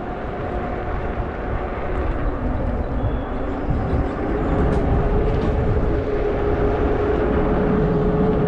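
Wind rushing over the microphone of a selfie-stick camera while riding a 20-inch fat-tire e-bike, with a steady hum underneath that settles at a lower pitch about four seconds in.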